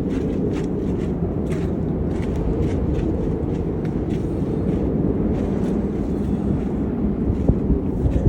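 Wind buffeting the microphone: a steady low rumbling rush, with faint ticks above it.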